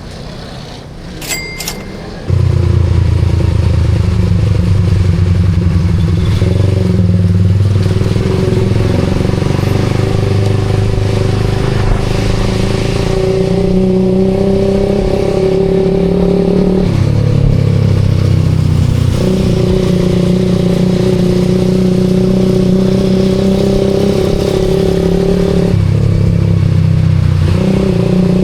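Suzuki GSX-R150's single-cylinder engine through an aftermarket SARP exhaust. It is quieter for the first two seconds, then gets suddenly louder and runs steadily under way, its note breaking and stepping in pitch a few times. A short high beep sounds about a second in.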